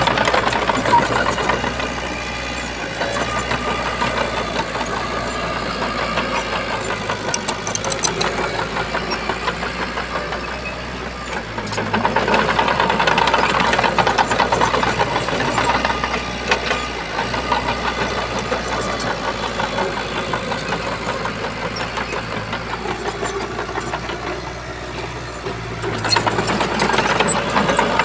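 Diesel engine of a Shantui bulldozer running with a steady knocking beat. It grows louder for a few seconds about twelve seconds in, and again near the end.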